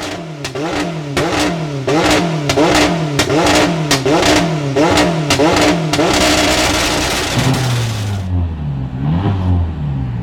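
Hill-climb race car engine revving hard in quick repeated rises and drops, about two a second, each ending in a sharp crack. About six seconds in a hissing rush takes over, then the engine runs lower with a couple more short rises.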